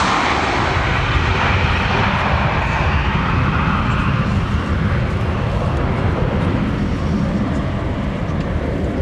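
Jet noise from a Boeing 757-200's two Rolls-Royce RB211 turbofans as it flies past in a display. There is a heavy, steady low rumble, and the hissing upper part of the sound fades over the first few seconds as the aircraft moves away.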